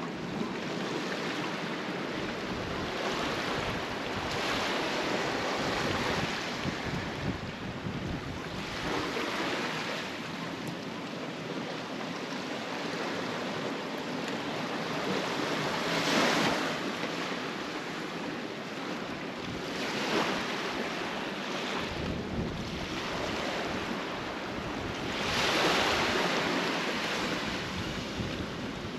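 Sea waves washing against a concrete tetrapod breakwater, swelling and easing every few seconds, with wind buffeting the microphone.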